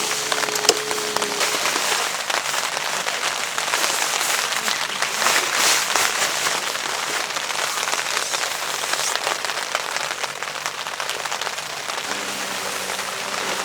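Heavy rain falling on a DD tarp: a steady hiss of rain with many separate drop hits on the fabric.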